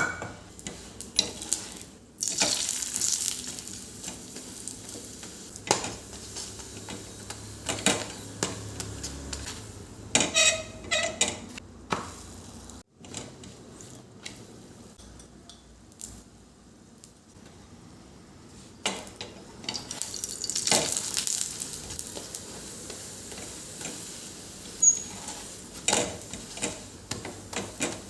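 Household handling sounds: many sharp clicks and knocks of objects being set down and moved, with two longer spells of hissing or rubbing noise, one a couple of seconds in and one near two-thirds of the way through.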